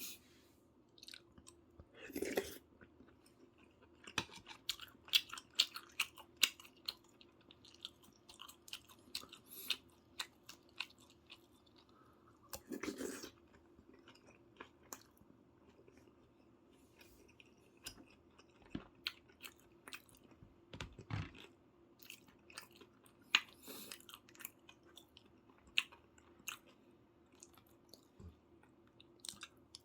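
Someone chewing and biting food close to the microphone: a steady run of small wet mouth clicks with occasional crunches, and a few louder, longer bites or slurps about 2, 13 and 21 seconds in.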